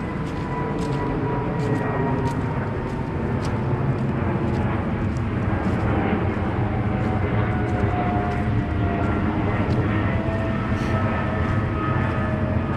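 Aircraft passing overhead: a steady engine noise with thin whining tones that slowly fall in pitch. Light regular steps tick about twice a second underneath.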